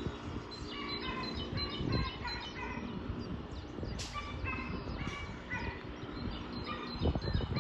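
Birds singing, many short repeated chirping notes, over a low rumble that grows louder near the end.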